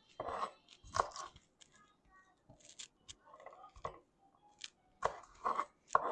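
Fresh string beans being trimmed for cooking: a run of crisp snapping crunches, irregular, roughly one every half second to second, with a short gap in the middle.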